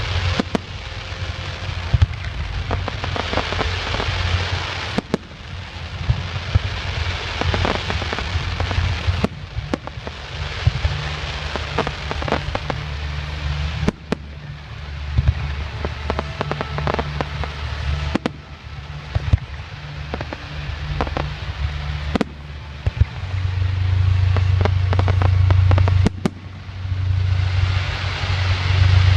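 Fireworks display: shells bursting in frequent sharp bangs, with crackling between them over a steady low rumble that swells near the end.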